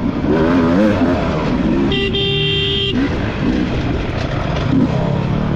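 Off-road motorcycle engine revving up and down repeatedly under riding load. About two seconds in, a steady horn-like tone sounds for about a second.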